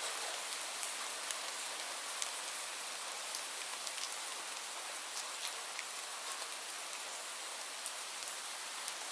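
Steady rain falling on a surface, an even hiss with scattered sharp ticks of individual drops.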